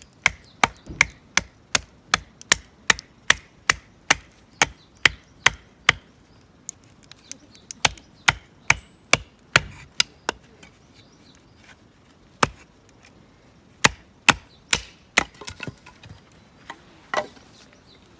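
Firewood being split: sharp wooden knocks, about two and a half a second at first, then slower and irregular.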